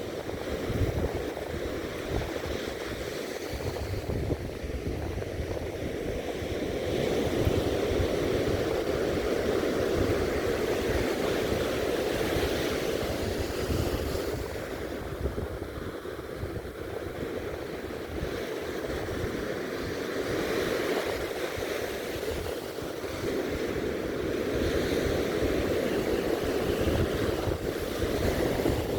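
Sea surf breaking and washing up on the beach, swelling and easing every several seconds, with wind buffeting the microphone.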